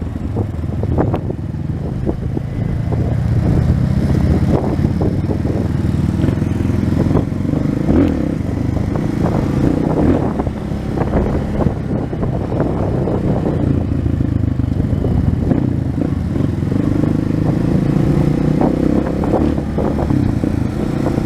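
230 cc single-cylinder trail motorcycle engine running steadily under way on a dirt road, with frequent short clattering knocks from the bike over bumps.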